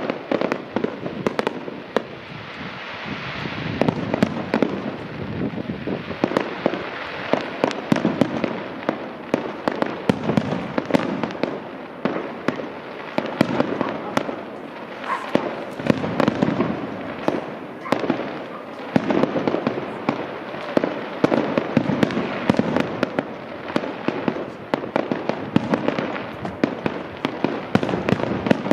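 Fireworks display in full flow: a dense, unbroken barrage of bangs and cracks, many a second, over a continuous rumble.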